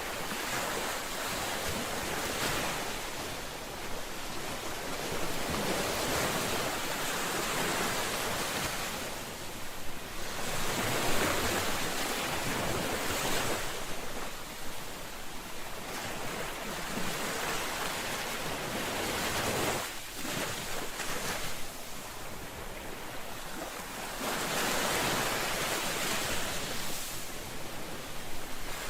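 Ocean waves breaking and washing on a shore, a steady rush of surf that swells and recedes every few seconds, with some wind on the microphone.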